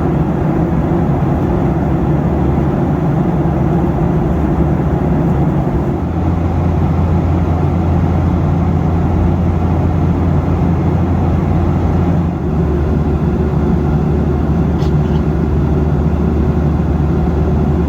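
Steady cabin noise of a Boeing 737 in flight: a constant drone of engines and airflow with a low hum underneath.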